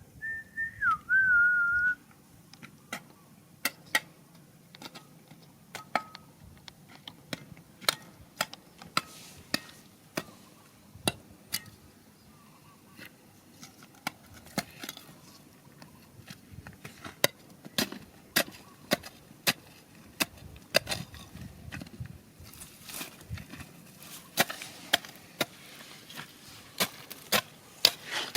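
A short whistle in the first two seconds, then a long run of sharp, irregular clicks and knocks, about one or two a second, as rocks and gravel are struck and knocked about while digging.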